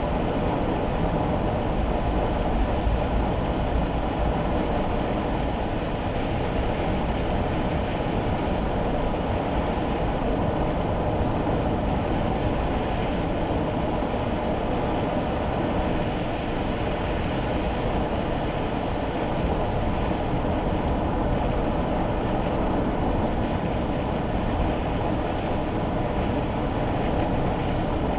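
Steady rumble of road and engine noise heard inside a kei car's cabin while driving on wet roads in the rain, even throughout with no sharp events.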